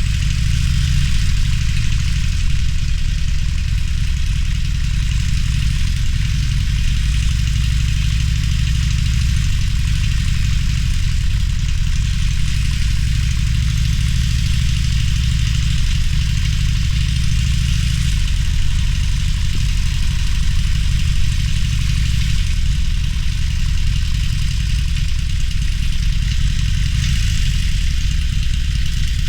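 Harley-Davidson Roadster's V-twin engine running steadily at low revs, a deep rumble with a steady hiss over it.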